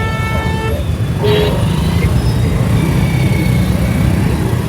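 Wind buffeting on the microphone with road noise, riding an electric scooter through traffic, and a vehicle horn tooting briefly at the start.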